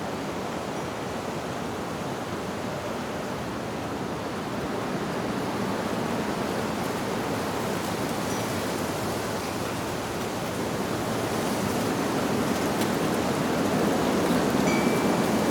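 Wind rushing through tree leaves in a steady rush that swells stronger toward the end, with a couple of faint wind chime tones ringing through it, one about halfway and one near the end.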